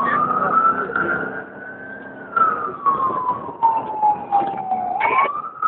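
Police car siren on a slow wail, its pitch rising, then falling over several seconds, and starting to rise again near the end. Short crackles are heard over it.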